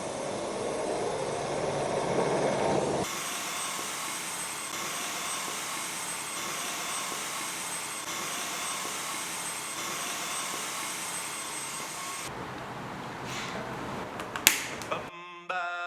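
Dyson cordless stick vacuum running with a powered mop head attached: a steady motor noise with a thin high whine. The noise changes abruptly about three seconds in and again near the end, followed by a few clicks.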